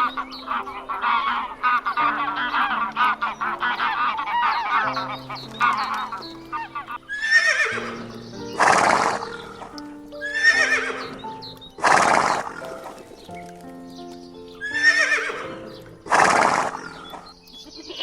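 Horse neighing, three loud whinnies in the second half, over background music with steady held notes. They follow a stretch of dense warbling animal calls.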